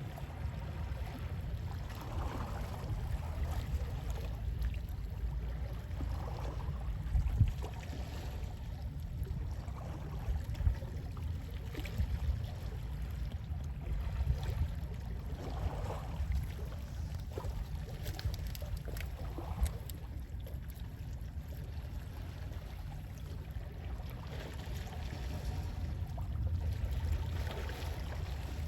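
Small sea waves lapping and washing in, in soft repeated swells with the odd small splash, over a steady low wind rumble.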